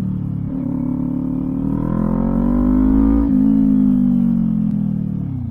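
Kawasaki Ninja 400 parallel-twin engine through a LeoVince exhaust, pulling under throttle. The pitch climbs for about three seconds, breaks briefly, then sinks steadily as the bike slows.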